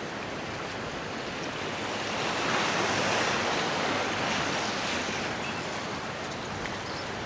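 Ocean surf washing steadily, with wind on the microphone; the wash swells about two and a half seconds in and eases off again.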